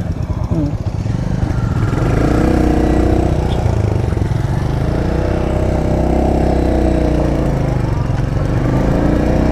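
Royal Enfield Hunter 350's 349 cc single-cylinder engine running, its pitch rising and falling twice as the throttle is opened and eased off.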